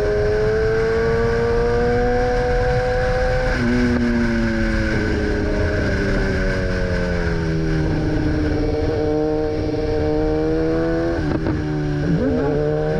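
BMW S1000R's inline-four engine under way: its pitch climbs, drops suddenly at each gear change (about four seconds in and again near eight seconds), then eases down, over a steady rush of wind.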